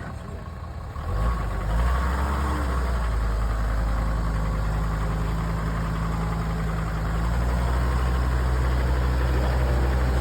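Off-road vehicle's engine picking up about a second in, then running at low, steady revs.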